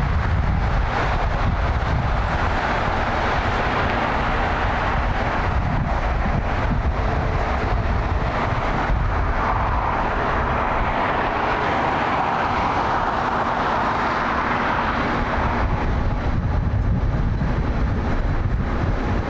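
Jet engine noise of a Boeing 787 Dreamliner on the runway: a steady rush that swells around the middle and eases near the end, with a fluctuating low rumble beneath.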